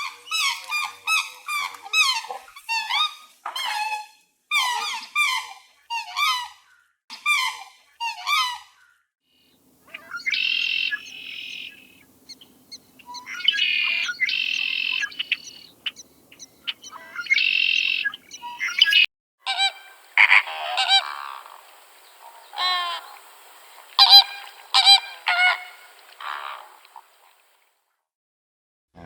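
Farm poultry calling in three separate stretches: a fast run of honking calls, then harsher squawking calls, then another run of calls.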